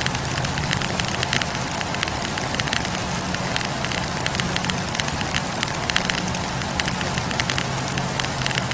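Wood campfire crackling: a steady hiss of flames with many small, quick pops and snaps of burning logs. A low hum under it fades in and out.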